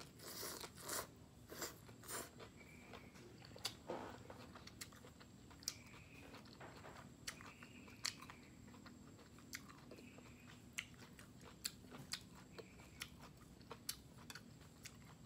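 Close-up chewing of a grilled beef roll stuffed with bell pepper and enoki mushroom: crunchy bites, densest in the first two seconds, then scattered sharp crunches and mouth clicks while the mouthful is chewed.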